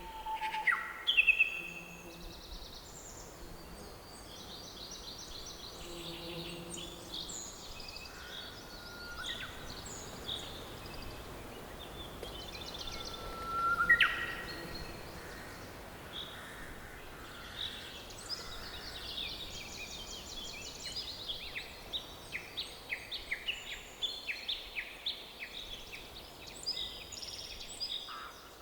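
Forest birdsong: several birds chirping and trilling over a faint steady hiss, with a loud rising call about halfway through and a busy run of quick repeated notes in the second half.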